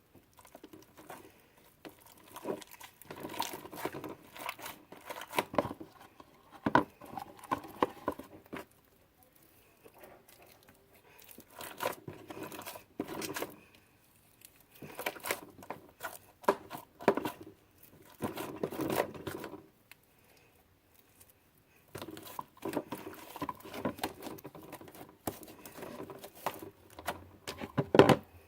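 Hands working sticky homemade slime, scraping leftover bits out of a bowl: irregular sticky crackles and clicks in bursts of a few seconds, with short pauses between.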